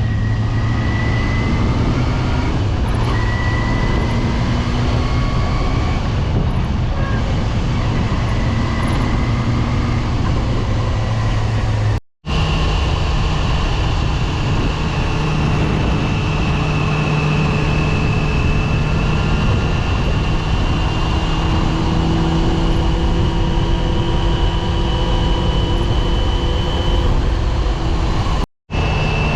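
Yamaha FZR250's inline-four engine running at a steady cruising speed under a haze of wind noise, its note holding steady. There is a brief cut-out about twelve seconds in, after which the engine note is higher, and another cut near the end.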